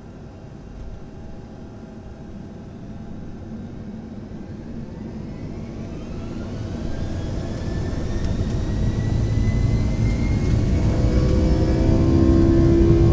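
Boeing 757-200 jet engines spooling up to takeoff thrust, heard from inside the cabin: a rising whine climbs in pitch while the rumble grows steadily louder.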